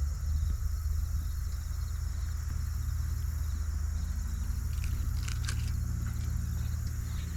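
Heavy truck's diesel engine rumbling steadily, with a higher engine note joining about four seconds in. A few sharp clicks come around five seconds in.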